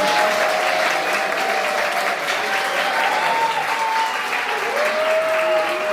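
An audience clapping steadily, with a couple of long drawn-out cheers from voices over the applause, one near the start and one about five seconds in.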